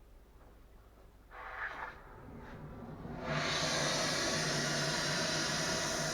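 Cutting or welding starting on a 76 mm steel heating-main pipe: after a short burst of noise, a loud steady hiss sets in suddenly about three seconds in and holds.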